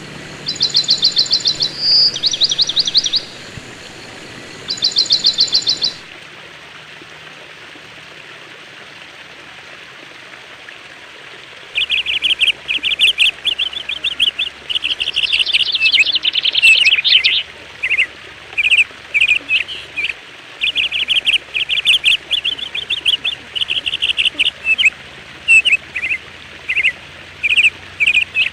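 Songbirds chirping in quick trilled phrases over a steady background hiss. About six seconds in the track changes abruptly; after several seconds of hiss alone, a bird sings a long run of short chirping phrases.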